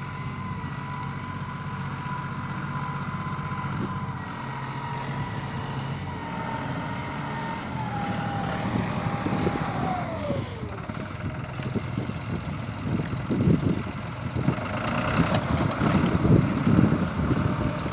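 Tractor engine running steadily, with a high mechanical whine that drops in pitch and dies away about ten seconds in. Gusts of wind hit the microphone toward the end.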